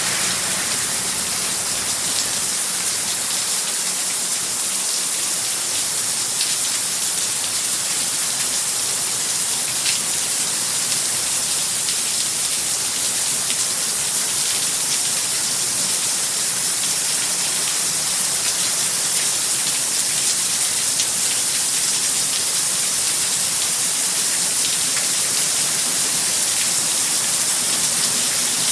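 Heavy tropical-storm rain pouring steadily, an even hiss with scattered drops ticking on surfaces.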